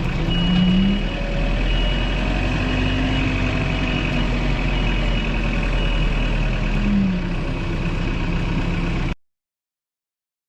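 Engine of a heavy grapple machine running, revving up briefly twice, with a backup alarm beeping at a steady pace of about three beeps every two seconds while it reverses. The sound cuts off abruptly near the end.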